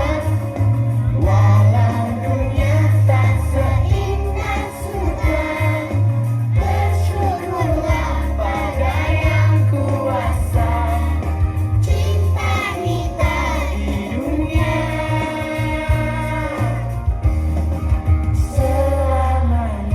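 Children's choir singing over loud instrumental accompaniment with a heavy bass line.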